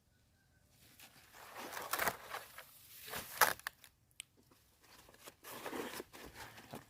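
Close, irregular rustling and crunching, with sharp cracks about two seconds and three and a half seconds in.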